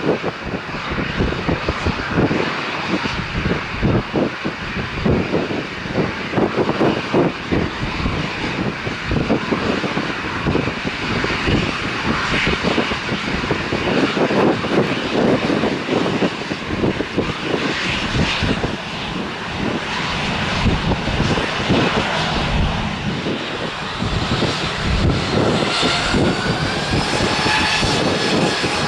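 Jet airliner engines heard as a loud, uneven rushing roar. Near the end a whine rises in pitch.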